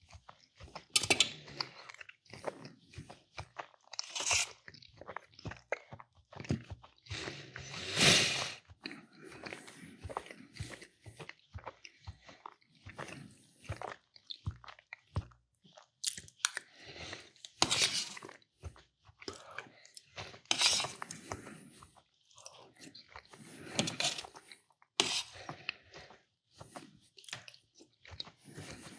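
Close-miked chewing and biting: wet mouth sounds and crunches from a person eating steadily, with louder bites scattered through.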